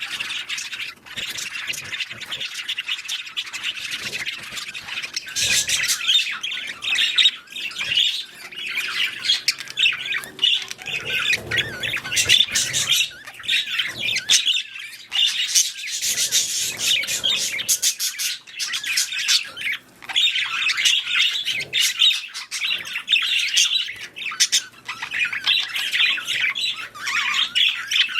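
Budgerigars chattering continuously, with rapid warbling chirps and frequent short squawks.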